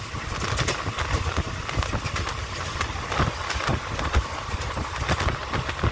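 Indian Railways train running on the track, heard at an open coach door: wheels clacking and rattling over the rails in quick, irregular knocks over a steady rush of running noise.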